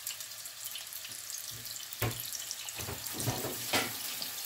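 Beef patty frying in hot oil in a nonstick pan, a steady crackling sizzle. About halfway through, a second raw patty goes into the oil and the sizzling gets louder and busier.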